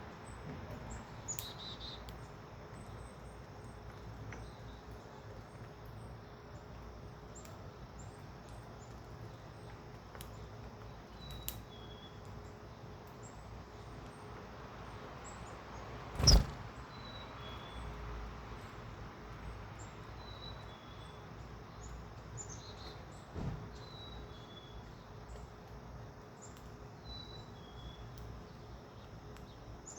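Birds at a feeder giving short, high chirps scattered throughout. There is one sharp, loud thump about sixteen seconds in, a softer one about twenty-three seconds in, and a low steady background rumble.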